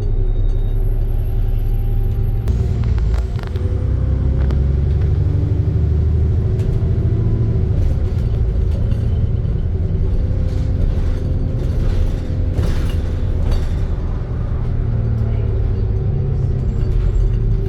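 ADL Trident II Enviro 400 double-decker bus heard on board while driving: a low engine rumble with whining tones that rise and fall as it speeds up and slows. Scattered rattles and clicks come in clusters, heaviest about three seconds in and again around twelve to fourteen seconds.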